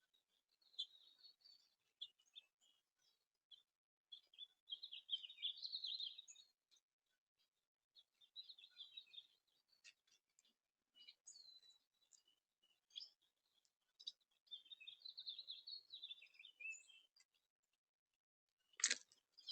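Small songbirds chirping faintly in short, scattered bursts of calls. A single sharp click comes near the end.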